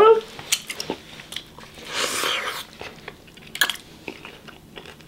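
A person chewing a mouthful of taco close to the microphone, with scattered short wet clicks and a louder noisy stretch of chewing about two seconds in.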